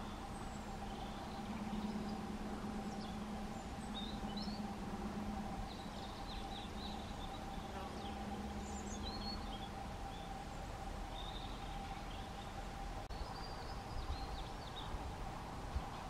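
Faint chirps and tweets of small birds, scattered short calls, over a steady background hum; a lower part of the hum fades out about two-thirds of the way through.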